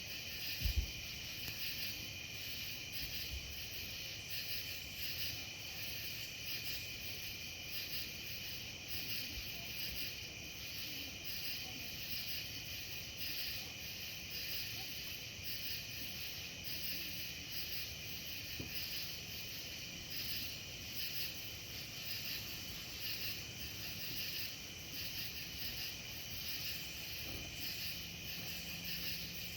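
Insects chirping in a steady, continuous chorus, pulsing a few times a second, with a brief low thump just under a second in.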